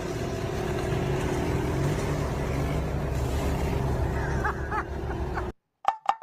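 A steady mechanical noise like a running motor vehicle, with a low, even hum beneath it, cutting off suddenly about five and a half seconds in; a quick run of rhythmic clicks follows near the end.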